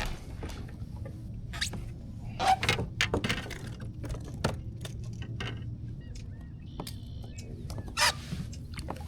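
Scattered sharp clicks and knocks with small splashes as a small bass is brought aboard a fishing kayak by hand, with a louder splash or rustle about eight seconds in.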